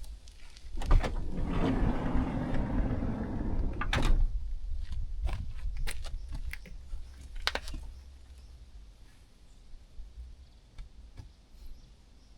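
A van door being worked: a clunk about a second in, a rush of noise for about three seconds, a second clunk, then a few lighter clicks.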